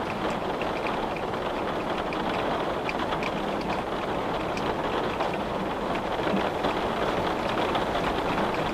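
Steady rain on a window, an even hiss with scattered small drop ticks.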